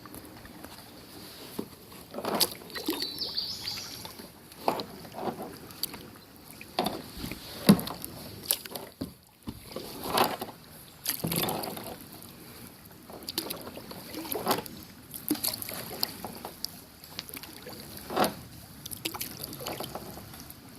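Paddle strokes in river water: a paddle dipping and splashing at an irregular pace, about one stroke every second or two.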